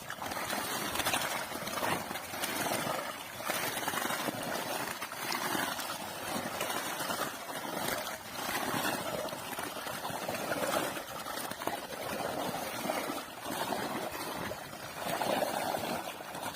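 Cono weeder pushed and pulled through a flooded paddy field, its rotors churning and splashing the water and mud in swells about once a second.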